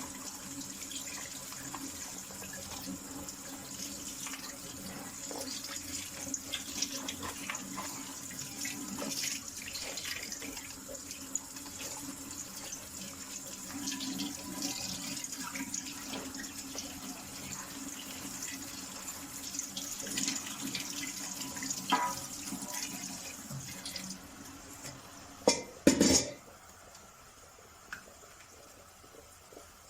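Cold tap water running over boiled okra in a colander, with light clicks and rattles. Near the end the water stops and two loud knocks follow.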